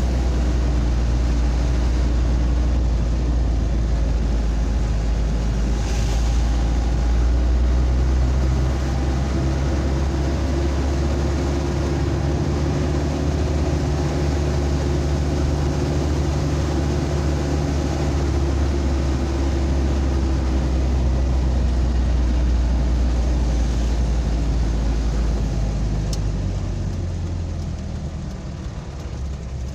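Road vehicle's engine running steadily while driving, a loud low drone with road noise. Near the end the engine note drops and the sound grows quieter as the vehicle slows.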